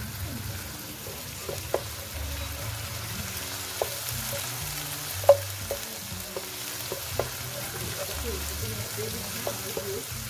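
Diced onion, garlic and ginger sizzling in hot oil in a wok while a wooden spoon stirs them. Scattered sharp clicks and knocks run through the sizzle, the loudest about five seconds in.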